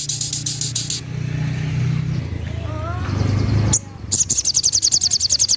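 Sogok ontong bird giving its burst song: a fast, high trill of evenly repeated notes that stops about a second in and starts again about four seconds in. A low rumble fills the gap between the two trills.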